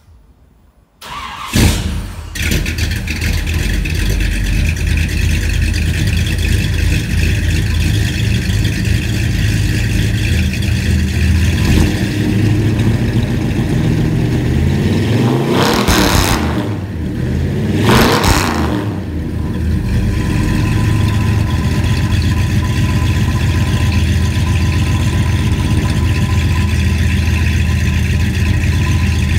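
Chevrolet 454 big-block V8 starting about a second in and settling into a steady idle through Full Boar FB2540 chambered mufflers, a copy of the Flowmaster 40. About halfway through there are two quick throttle blips.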